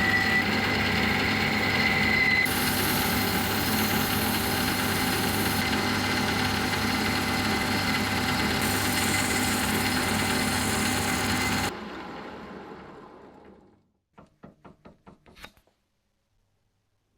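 An electric workshop machine runs steadily and is switched off about twelve seconds in, winding down over a couple of seconds. A quick run of about eight light clicks follows.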